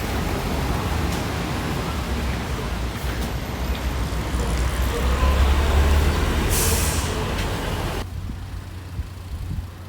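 JR West local electric train running, a steady rumble with a strong low hum; about two-thirds of the way through comes a short burst of air hiss, and near the end the noise drops away suddenly.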